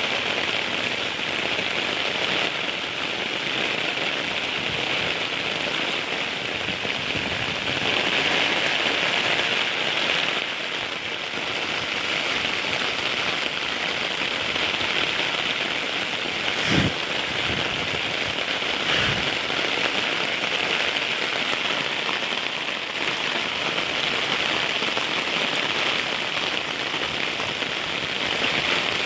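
Heavy rain falling steadily, a dense even hiss of drops. Two brief dull thumps come a couple of seconds apart, a little past the middle.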